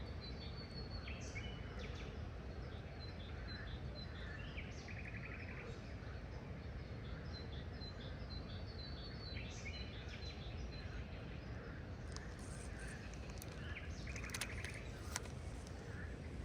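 Several birds chirping and calling over a steady low rumble of background noise. The calls include quick runs of high chirps and two short buzzy trills, and a few sharp clicks come in the last few seconds.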